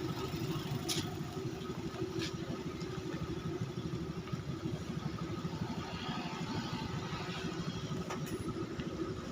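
An engine running steadily at a low, even pace, with a few faint clicks.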